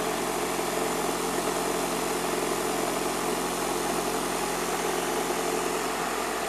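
Electric fan heater's blower fan running steadily in its 1000-watt mode: an even rush of air with a low hum.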